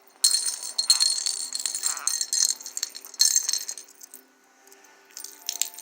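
A small rattling bird toy being shaken and jostled, jingling and clinking in quick runs for about two and a half seconds, with one more short shake a little after three seconds in.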